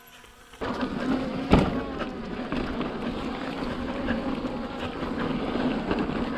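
A faint buzzing hum, then, under a second in, the loud rushing noise of a mountain bike rolling over slickrock with wind on the microphone. There is a sharp knock about a second and a half in.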